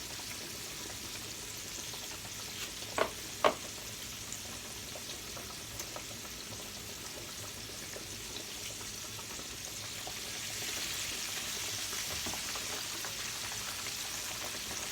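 Floured pork chops frying in hot oil, a steady sizzle that grows a little louder about ten seconds in, with two sharp clicks a few seconds in. The sizzle has calmed, which the cook takes as the sign that the chops are nearly done.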